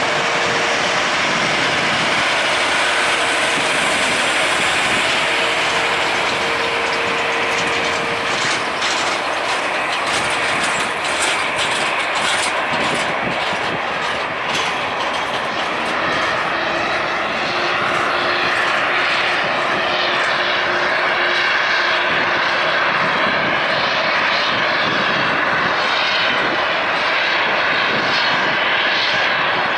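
Jet engines of an Airbus A330-900neo airliner, its two Rolls-Royce Trent 7000 turbofans, heard loud and steady as the aircraft passes the observer.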